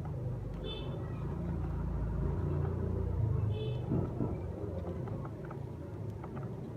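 Budgerigars giving two short chirps, one about a second in and another near the middle, with a few faint clicks, over a steady low rumble.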